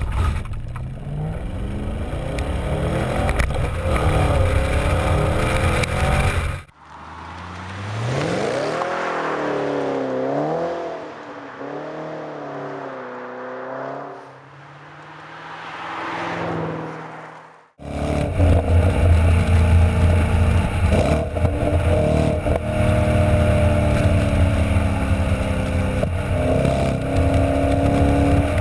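Wiesmann GT MF4's BMW-sourced V8 engine and exhaust under acceleration, in three cut-together passages. First the revs climb; then, thinner, the revs swing up and down several times; then the engine runs strongly at a fairly steady pitch.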